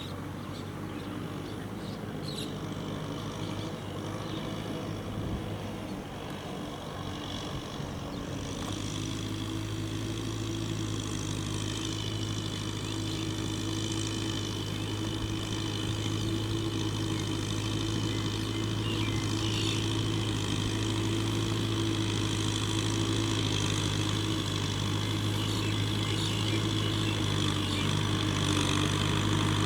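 Kubota M6040SU tractor's diesel engine running steadily and growing gradually louder, its note becoming strong and even about eight seconds in.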